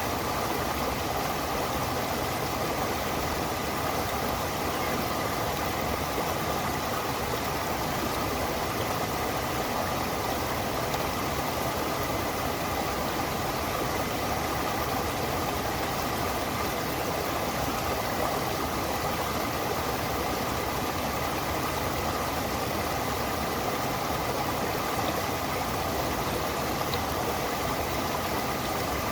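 Stream water flowing and rushing in a steady, unbroken wash.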